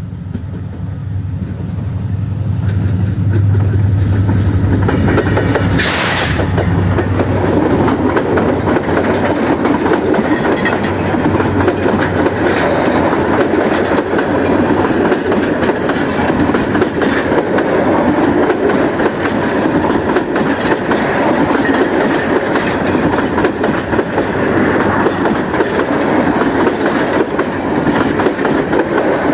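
Express train passing at speed: a low hum as it approaches over the first few seconds, then a loud, continuous rush of the carriages with rapid clickety-clack of wheels over the rail joints.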